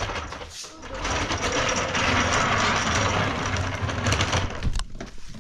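A small machine running with a fast, even mechanical rhythm; it starts about a second in and stops shortly before the end.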